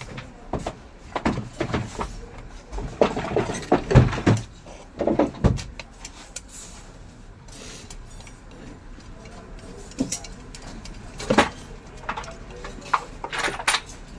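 Irregular knocks and clatter of ceiling fan motor parts being handled and tapped, with a quieter stretch in the middle.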